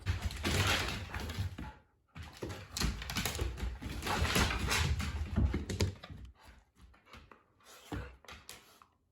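Dogs moving about with claws clicking on a hard floor, with scuffling and rustling; dense for the first six seconds, then a few scattered clicks.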